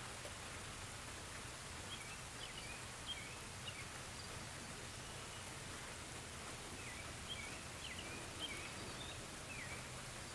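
Steady hiss of light rain, with short high chirps in two brief clusters, one a couple of seconds in and another past the middle.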